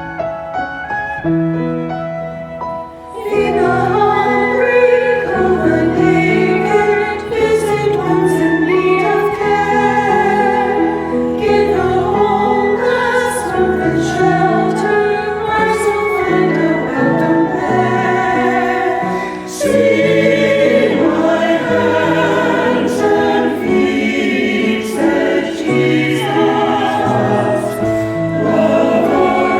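A choir singing sacred music with keyboard accompaniment. It enters about three seconds in, after a short instrumental passage.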